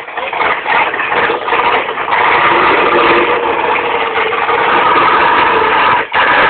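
1969 Chevrolet Camaro drag car's big-cam V8 running, with a choppy, uneven beat for about two seconds, then steady and loud. The sound drops out briefly near the end.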